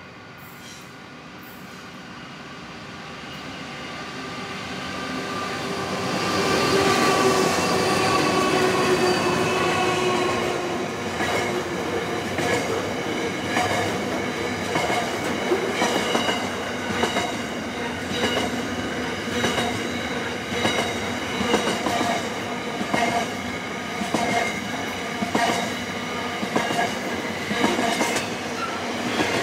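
Freight train hauled by two NR class diesel-electric locomotives approaching and passing. The locomotive engines grow steadily louder and peak as they go by about seven seconds in, their note dropping a little. Then the container wagons roll past with a regular clicking of wheels over the rail joints and a high wheel squeal.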